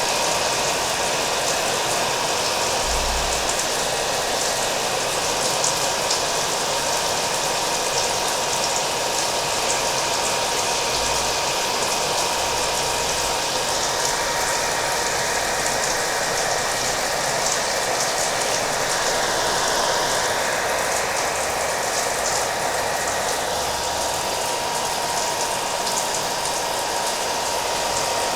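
Hair dryer running steadily with a faint steady whine, mixed with the steady hiss of rain.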